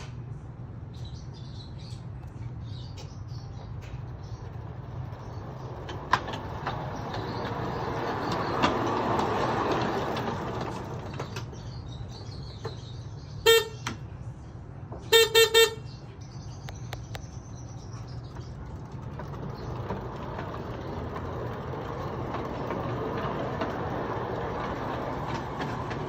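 Locomotive horn giving short toots: a single toot about halfway through, then three quick toots about two seconds later. Under them a steady low hum and a running noise that swells and fades twice, as the train goes by.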